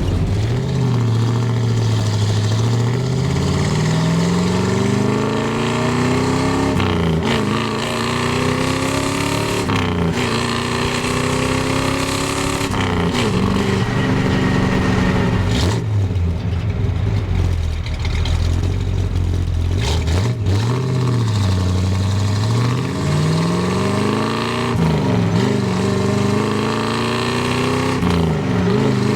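Exhaust of a 1967 Chevrolet Impala SS's 396 big-block V8, picked up at the rear bumper while the car is driven: the engine note climbs for a few seconds, drops sharply and climbs again, over and over, as it pulls and backs off.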